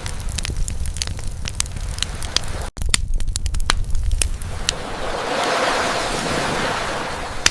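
Campfire crackling with frequent sharp pops over the wash of ocean waves, one wave swelling in about five seconds in. The sound cuts out for an instant a little before the three-second mark.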